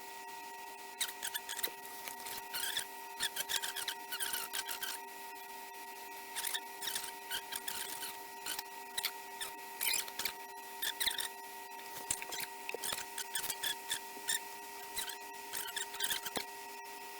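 Hot-air SMD rework station blowing with its fan at full speed: a steady hum of several fixed pitches. Over it, rapid irregular scratchy clicks and scrapes come and go throughout.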